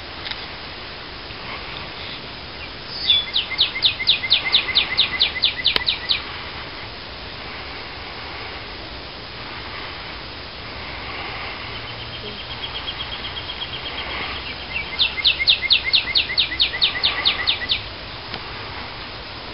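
A songbird singing: two phrases of loud, clear down-slurred whistles repeated about five times a second, each phrase lasting about three seconds, with a fainter, quicker run of notes between them, over steady outdoor background noise.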